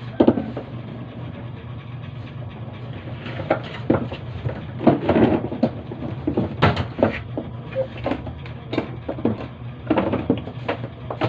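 Irregular knocks and clatter of tools and parts being handled during washing-machine repair work, over a steady low hum.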